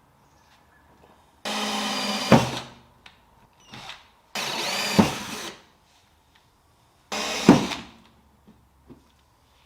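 Power drill fitted with the parking-sensor kit's hole-cutting bit, run in three short bursts of about a second each, the whine dropping in pitch at the end of each burst: drilling the holes for the parking sensors.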